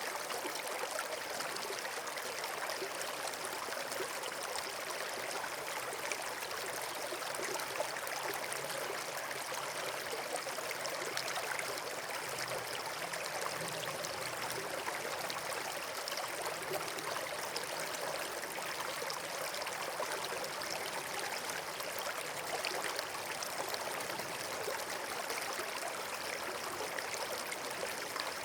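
Running water rushing steadily, like a stream or small waterfall, unchanging throughout.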